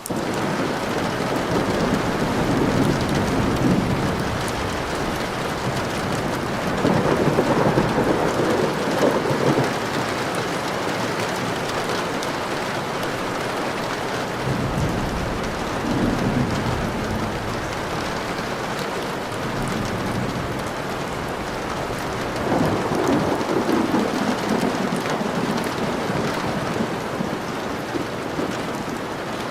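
Steady rain falling, with four low rolls of thunder rumbling through it, each swelling and fading over two or three seconds.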